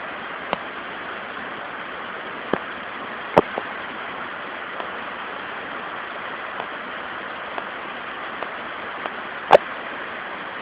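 Steady rushing of a waterfall, with a few sharp knocks over it, the loudest about three and a half seconds in and near the end.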